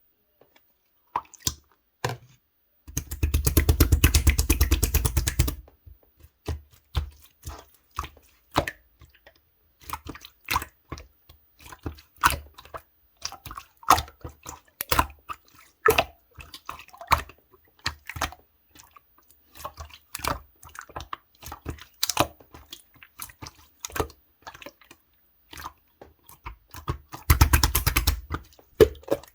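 Clear slime being worked by hand: wet, sticky clicks and small air-bubble pops, with two runs of quick, louder squishing, one about three seconds in and one near the end.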